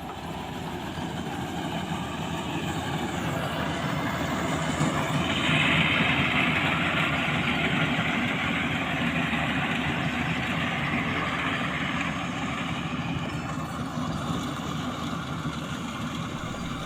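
Combine harvester engine running steadily. It grows louder over the first six seconds as the machine draws near, then eases off slightly.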